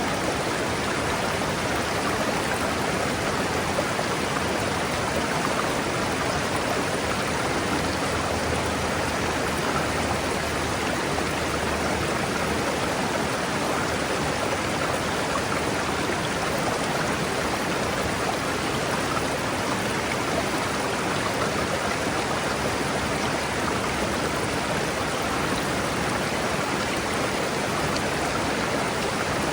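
A river flowing over rocks: a steady, even rushing of water.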